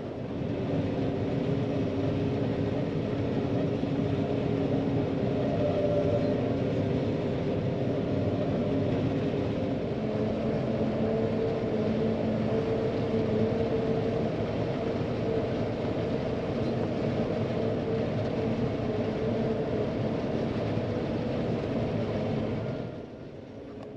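John Deere 9500 combine running steadily while harvesting soybeans: a constant machine drone with several steady tones that shift slightly about halfway through, stopping suddenly near the end.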